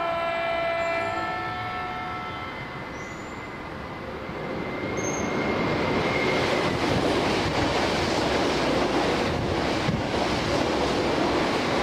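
A Keikyu electric train sounds a held horn chord for about three seconds, then runs through the station at speed. The rush of wheels on rail grows loud about five seconds in and stays loud as the cars pass.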